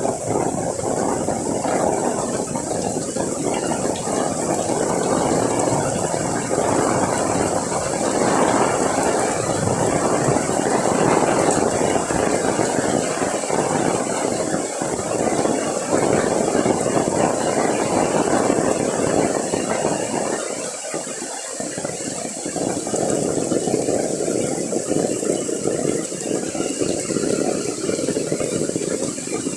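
Heavy rain falling steadily, a dense rushing noise that eases slightly for a moment partway through.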